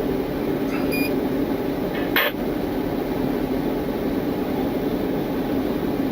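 A steady mechanical hum, with a short electronic beep about a second in and one sharp click a little after two seconds.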